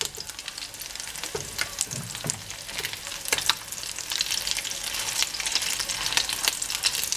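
Rice-and-egg fritters sizzling in hot oil in an earthenware pan, with many sharp crackles, while plastic spatulas push and turn them. The sizzle grows louder about four seconds in.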